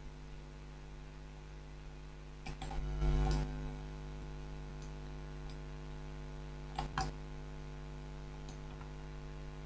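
Steady electrical mains hum, with a louder muffled rustle about three seconds in and a few faint clicks, two close together about seven seconds in.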